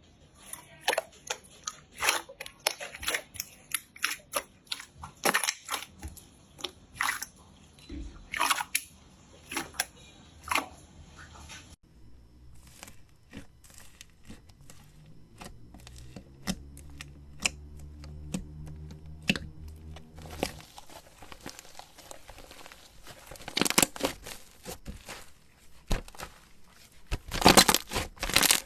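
Slime being squeezed, poked and stretched by hand, giving irregular runs of sharp clicks, pops and crackles. The texture changes twice as one clip gives way to the next, the last part denser and louder.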